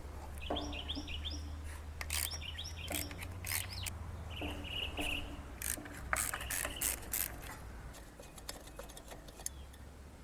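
Hand tools working bolts out of a small lawn mower engine: scattered sharp metallic clicks and clinks over a steady low hum, with short bird chirps among them.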